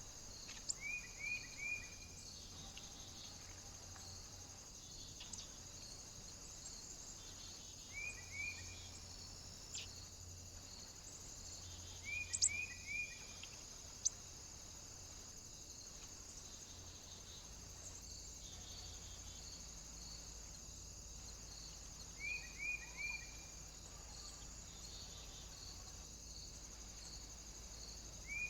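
A small bird calling in short groups of three or four quick descending notes, repeated every few seconds, over a steady high-pitched hiss.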